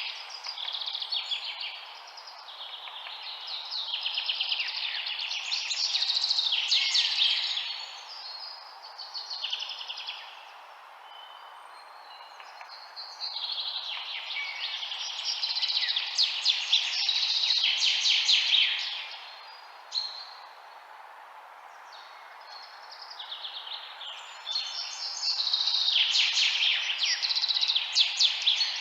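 Songbirds chirping and trilling in rapid runs that come and go in waves every few seconds, over a steady hiss of white noise.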